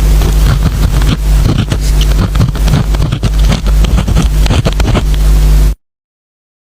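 Pen scratching and tapping on paper over a steady low hum, cutting off suddenly near the end.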